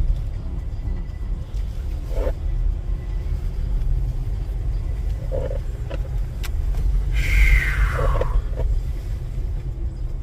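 Low, steady rumble of a car idling and creeping forward, heard from inside the cabin, with a few faint knocks and a brief falling squeal about seven seconds in.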